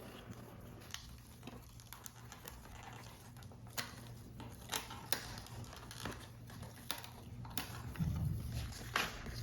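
Paper model pieces and small tools being handled on a tabletop: scattered light taps and clicks, with a heavier soft thump about eight seconds in.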